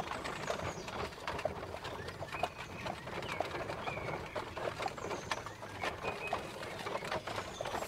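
Birds calling in short chirps, a countryside birdsong background, over scattered faint clicks.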